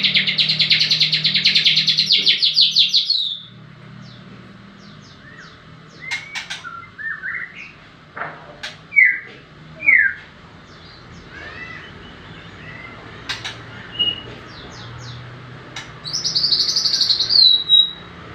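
White-rumped shama singing: a rapid buzzy trill for about three seconds at the start and again near the end, with scattered short chirps and downward-slurred whistles in between. A faint steady low hum runs underneath.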